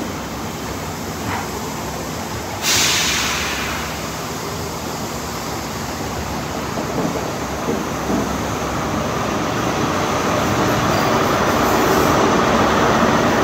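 ScotRail HST train moving along the platform, its Mark 3 coaches rumbling past. About three seconds in there is a sudden loud hiss that fades over a second. The noise then builds toward the end as the class 43 diesel power car draws near.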